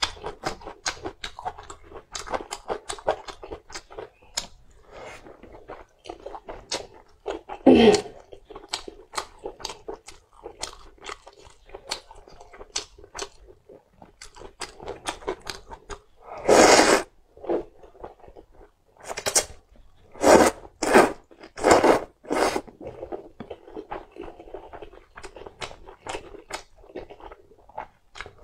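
Close-miked chewing and crunching as a fried yam-and-pork meatball, wide noodles and sliced green chillies are eaten, with many small mouth clicks. From about 16 to 23 seconds in there is a run of louder, longer mouth noises.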